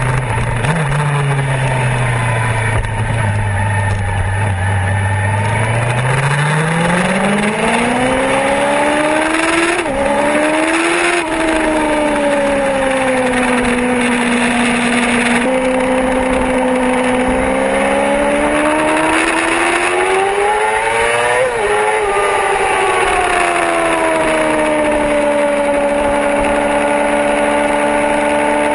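Yamaha R6 inline-four sport bike engine at track speed, its pitch climbing and falling repeatedly as it accelerates and slows, with two high peaks about a third and three quarters of the way through. Underneath runs a steady rush of wind and water spray off a soaked track.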